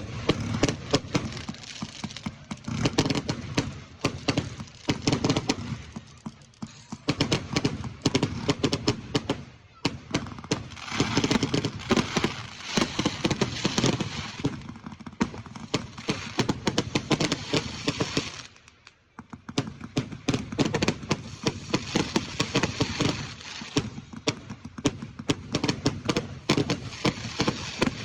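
Fireworks going off: a dense run of rapid crackling and popping bangs, easing off briefly about two-thirds of the way through before picking up again.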